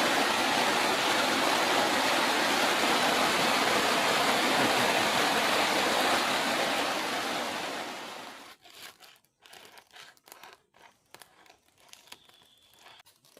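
Heavy rain pouring down on a plastic tarp shelter as a loud, even hiss. It dies away about two-thirds of the way through, leaving only faint scattered crackles and taps.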